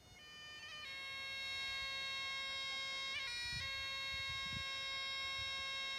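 Bagpipe music fading in: a steady drone under a chanter holding long notes, with quick grace-note flourishes at each change of note.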